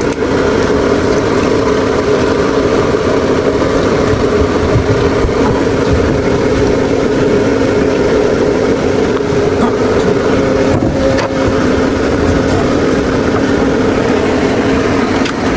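A motor running with a steady, unchanging hum that stays loud throughout.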